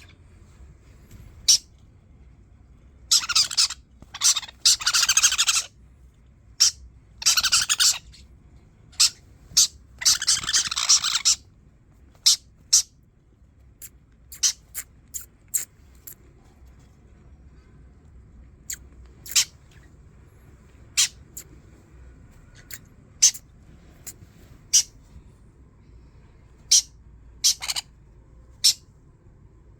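Sun conure calling: several harsh screeches, each up to about a second long, in the first dozen seconds, then many short sharp squawks and chirps spread out with gaps between them.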